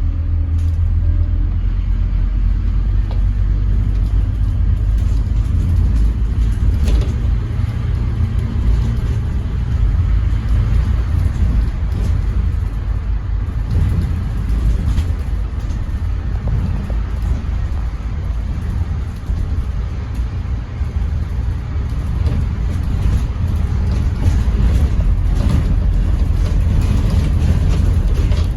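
Scania N230UD Enviro400 double-decker bus running, with its five-cylinder diesel engine giving a steady low drone under road noise and occasional short rattles.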